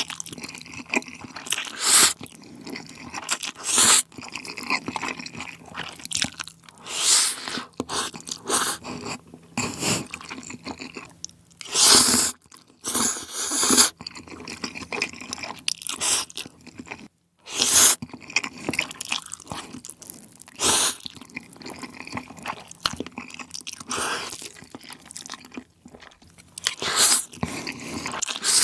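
Close-up eating of spicy noodles: chewing and slurping in a dense run of short, noisy bursts, about one every second or two.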